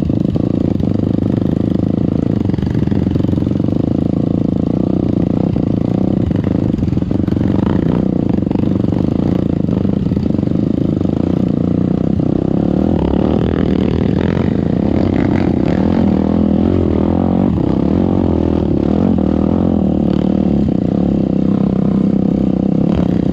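Trail motorcycle engine running continuously under throttle, its pitch shifting a little as it is ridden, with scattered knocks and clatter.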